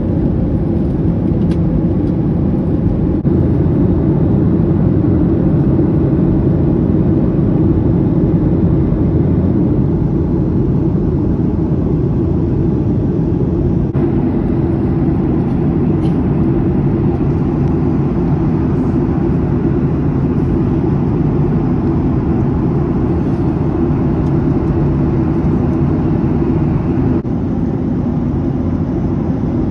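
Steady drone of jet engines and rushing air heard inside an airliner cabin, a low even rumble with a faint hum, easing slightly near the end.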